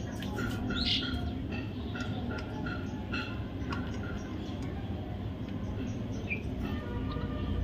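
Budgerigars chirping in short, repeated calls, with a louder call about a second in.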